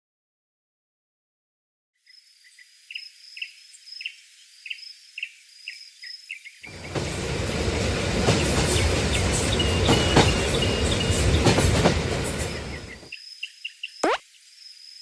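Silence at first, then faint high chirps over a steady high tone. About seven seconds in, a train passes with a loud, even rushing rumble that lasts about six seconds and fades out. A quick falling-pitch boing follows near the end.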